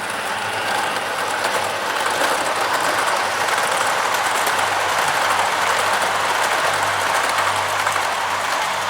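O gauge model diesel locomotive running along a garden railway track: steady running noise of its wheels on the rails and its motor, slightly fuller in the middle of the stretch.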